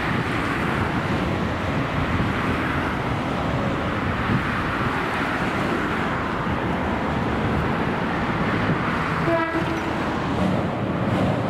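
A JR Kyushu 415 series electric multiple unit running past on the rails, a steady, continuous rumble of wheels and running gear. A brief tonal sound comes near the end.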